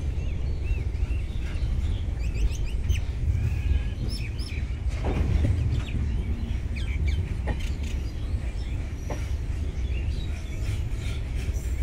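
Steady low rumble of LHB coaches rolling past on the track, with a few sharp clacks as wheels cross rail joints. Birds chirp over it.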